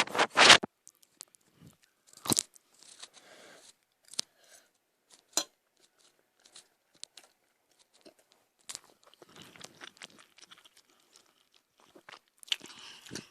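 Close-up sounds of a person eating: chewing with scattered small clicks and soft crunchy noises, after a brief loud noisy burst in the first half second.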